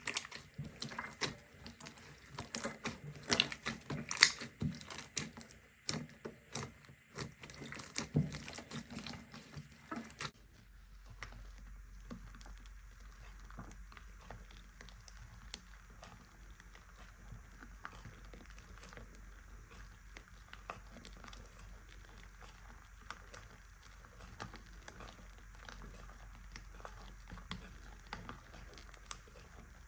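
Slime being squished and pressed by hand, with sticky pops and clicks. About ten seconds in the sound changes abruptly to softer, finer crackling over a steady low hum.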